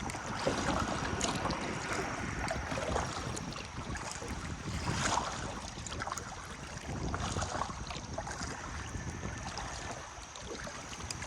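Water rushing and splashing around a kayak running a shallow channel through a small rapid, with wind noise on the microphone.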